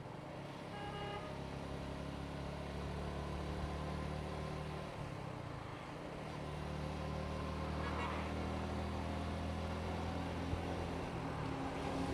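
Motorcycle engine running under way, its note easing off briefly near the middle and then picking up again. A short horn toot sounds about a second in.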